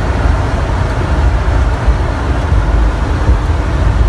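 Steady drone of a semi truck driving at highway speed: engine and road noise, heard as a heavy low rumble.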